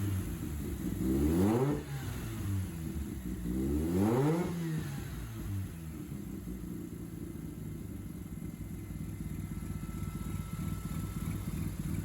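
Mazda RX-7 rotary engine revved twice in quick blips, its pitch rising and falling each time, then settling to a steady idle from about five seconds in.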